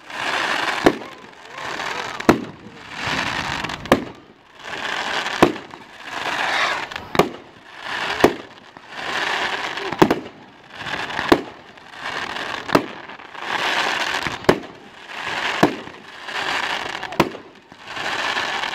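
Fireworks display: a sharp bang about every one and a half seconds, each followed by a second or so of crackling.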